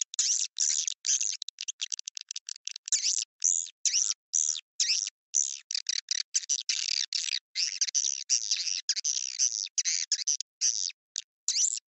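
Swiftlet calling-sound track: rapid, twittering swiftlet chirps in short bursts, several a second, broken by brief clean silent gaps. It is a lure recording played to draw swiftlets into a nesting house.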